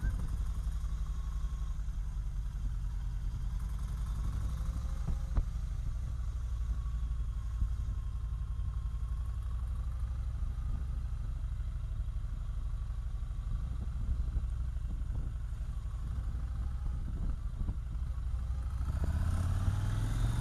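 Motorcycle running steadily on the road with a deep, continuous low rumble. A couple of short clicks are heard, and the sound grows louder and brighter near the end.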